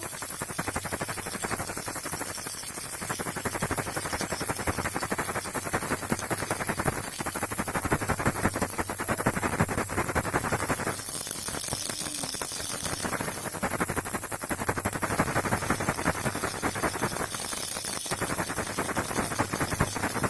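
Baby rattle shaken continuously, its loose beads clattering in a dense, rapid run of small clicks that swells and eases in places.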